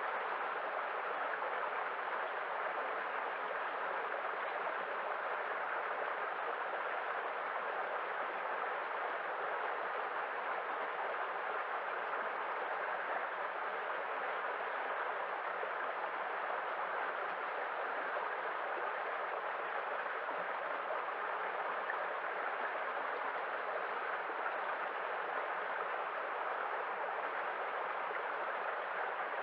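Rushing water in a steady, even wash, with no separate waves rising and falling.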